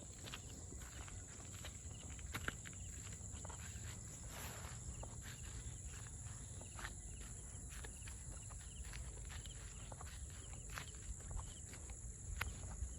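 Footsteps of someone walking outdoors, with scattered light crunches and ticks, over a steady high-pitched insect drone and a low rumble.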